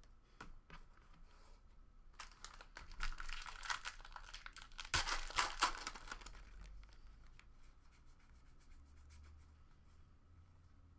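A trading card pack's wrapper being torn open and crinkled, with a few light clicks of cards being handled. The crinkling starts about two seconds in, is loudest around five to six seconds, and dies away soon after.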